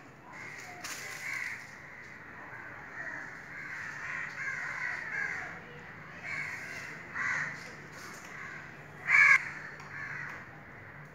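Birds calling again and again in short calls, the loudest one about nine seconds in.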